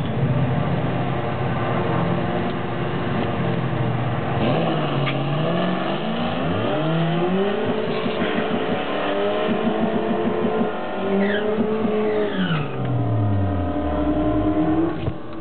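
Scion tC four-cylinder engines at a drag strip, running steadily at the start line and then launching, revving up through the gears in a series of rising sweeps; near the end an engine note falls away as a car pulls off.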